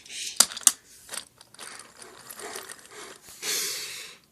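A handful of sharp clicks and clatters of small hard objects being handled, then a short hissing rustle near the end.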